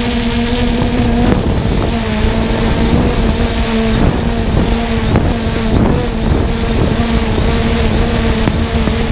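Multirotor drone's motors and propellers humming steadily, with a short drop in pitch about a second in, over wind noise on the microphone. Several sharp thuds cut through around a second in and again about four to six seconds in.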